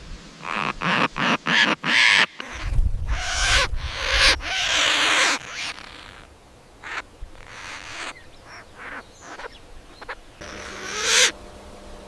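African grey parrot calls. A quick run of short, harsh squawks comes first, then longer rough calls, then scattered short calls. One louder call rises in pitch near the end.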